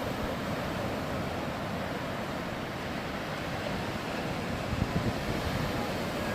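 Sea waves and surf in strong wind, with wind buffeting the microphone as a rough low rumble. There are a few brief, sharper buffets about five seconds in.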